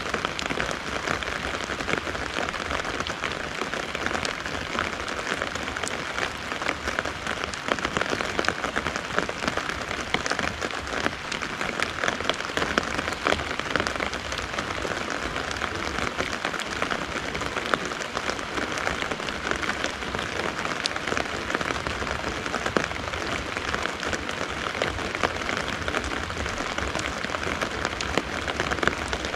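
Steady rain pattering on a fabric umbrella overhead and on the wet garden around it: a dense, even patter of drops.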